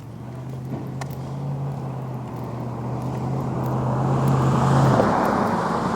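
A road vehicle approaching and passing, its engine hum and tyre noise building steadily louder to a peak about five seconds in.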